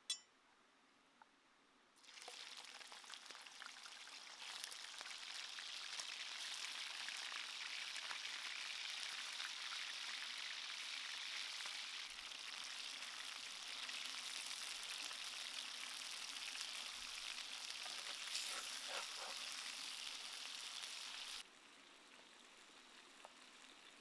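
Chicken pieces sizzling as they fry in hot oil in a shallow clay pan. The sizzle starts suddenly about two seconds in, grows louder a couple of seconds later, and cuts off abruptly near the end.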